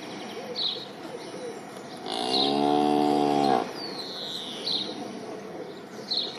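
A cow mooing once: one low call about a second and a half long, starting about two seconds in. Small birds chirp at short, fairly regular intervals.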